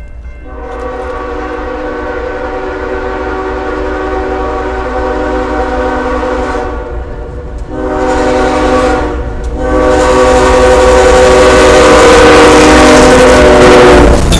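A CSX GE ES44 diesel locomotive's air horn blowing three blasts, long, shorter, then long, over the low rumble of the approaching train, growing louder as it nears. Near the end the horn stops and a loud wash of train noise takes over as the locomotives come close.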